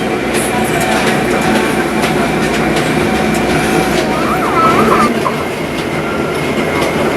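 Rack railway train running, a steady rumble of wheels on track with scattered short clicks.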